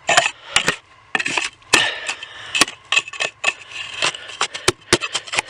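Sand and soil being scraped and worked in under a buried pipe: irregular gritty scrapes with many small sharp clicks, the strokes coming faster near the end.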